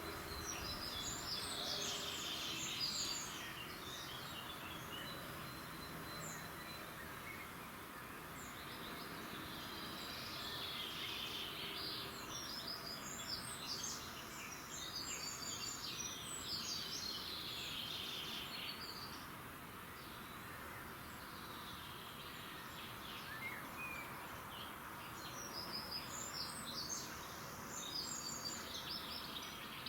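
Several songbirds singing outdoors at dawn in bursts of quick, high chirps and trills, near the start, through the middle and again near the end, over a steady background hiss.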